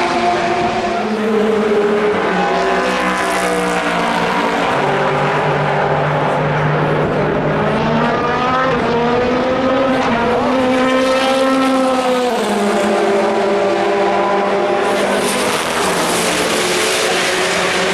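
Several endurance race cars running on the circuit, their engine notes overlapping and rising and falling in pitch as they accelerate and pass by.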